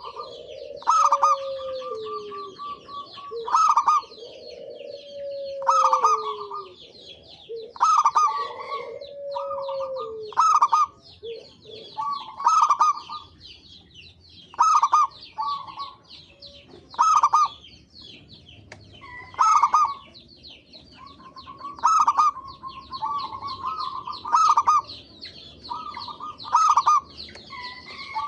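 Zebra dove (perkutut) cooing: the same call phrase repeated about every two and a half seconds, each opening with a sharp, bright note. A lower, falling sound recurs between phrases in the first ten seconds or so.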